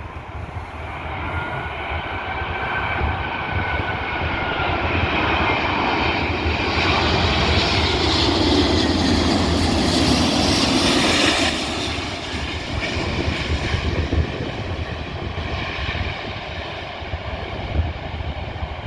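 Emirates Airbus A380 jet airliner passing on arrival: a jet engine roar that builds steadily, peaks about two thirds of the way through, then falls away sharply and continues more quietly. Low wind rumble on the microphone runs underneath.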